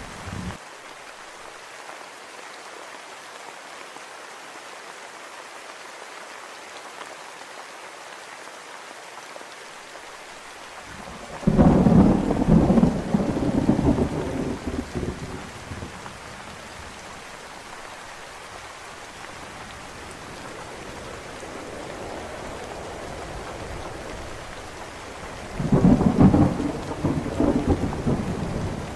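Steady rain falling, with two rolls of thunder: the first breaks out about eleven seconds in and rumbles for several seconds, and the second comes near the end.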